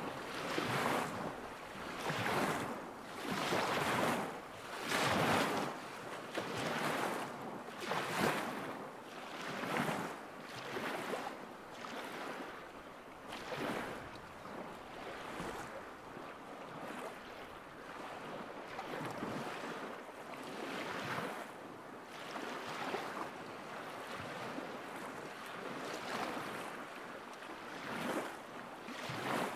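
Small waves lapping on a lakeshore, a soft splash every second or two, growing gentler about halfway through.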